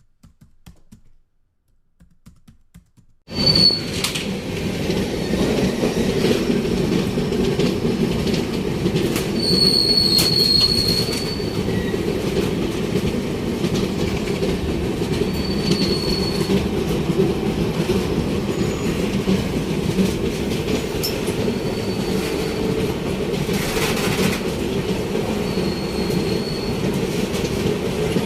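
Train wheels running on the track at speed: a steady rumble and clatter, heard from aboard the passenger coach, with brief high wheel squeals now and then. It begins suddenly about three seconds in, after faint clicking.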